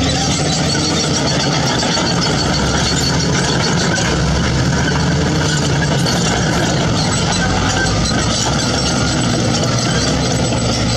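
Heavy diesel construction machinery engine running steadily.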